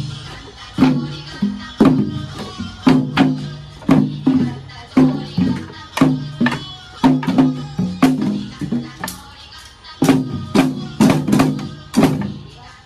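Janggu, the Korean hourglass drum, played in a steady rhythmic pattern: sharp stick strokes and deeper ringing drumhead strokes, with a brief pause about two-thirds of the way through before the pattern picks up again.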